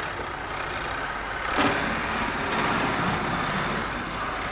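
A vehicle engine running steadily, with a single thud about a second and a half in.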